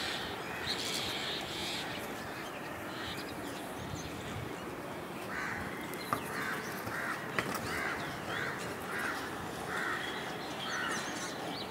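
A bird calling, a run of about eight short calls at roughly two a second starting about halfway through, over steady outdoor background noise.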